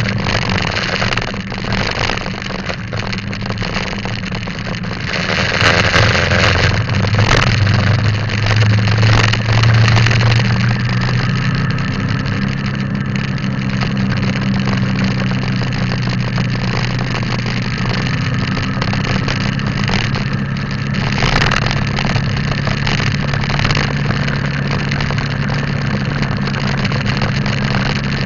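Motorcycle engine running steadily while riding, with wind rushing over the microphone. The engine gets louder for a few seconds from about six to ten seconds in.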